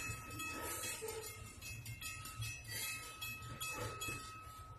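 Freight train cars rolling past with repeated clicking from the wheels, while a railroad crossing bell rings with a steady high tone that fades near the end.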